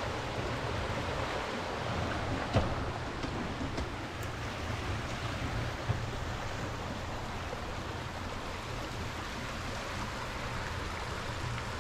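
Steady rushing wind noise on the microphone of a moving bicycle, with a low rumble, and two sharp knocks, one about two and a half seconds in and one about six seconds in.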